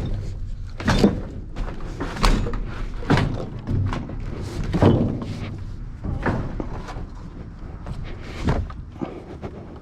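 A series of hard knocks and thuds at irregular intervals, about one every one to two seconds, as objects are handled and dropped, with a low rumble between them.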